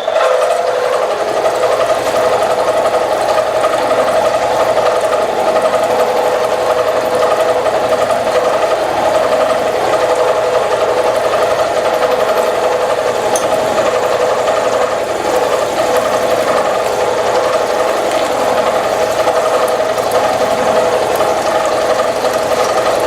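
Milling machine taking a heavy cut with a 5/8-inch two-flute high-speed-steel ball end mill at about three-quarter depth, under flood coolant. The cut begins right at the start as the cutter bites in, then runs on loud and steady with a strong steady tone and a fine, even chatter.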